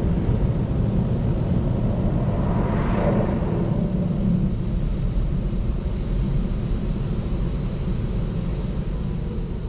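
Daifuku Fabrica gantry car wash machine running, heard from inside the car: a steady, loud rumbling wash noise with a brief louder swell about three seconds in, easing off slightly near the end.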